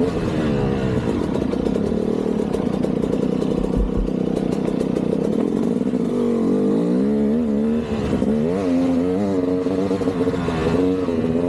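KTM 200's single-cylinder two-stroke engine held at steady revs for several seconds, then revving up and down on and off the throttle, with some clatter mixed in.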